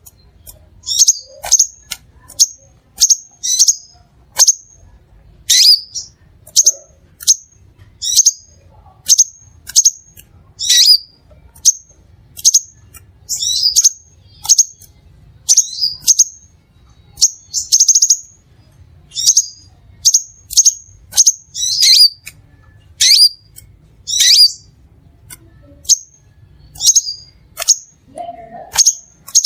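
Crimson sunbird calling: short, high, sharp chirps repeated one or two a second, several sweeping down in pitch.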